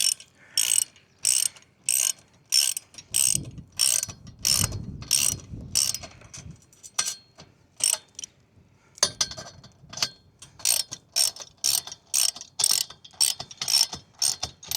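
Ratchet wrench being worked in steady strokes, each stroke a sharp click, just under two a second. A dull low rumble runs beneath it for a few seconds, and there is a short pause about eight seconds in before the clicking resumes.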